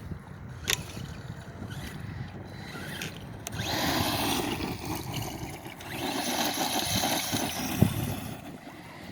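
Redcat RC truck driving on dirt: its motor and tyres come up in two runs, one about halfway through and one near the end. A sharp knock comes near the end.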